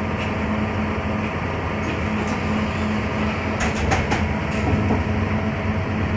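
Inside a Scania K320UB hybrid city bus: a steady drivetrain hum and road noise, with a few sharp rattles or clicks about three and a half to four seconds in.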